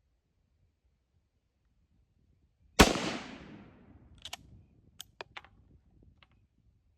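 A single rifle shot from a Swiss K31 carbine firing 7.5x55 Swiss full metal jacket ammunition, about three seconds in, its report fading away over about a second. A few sharp clicks follow over the next two seconds.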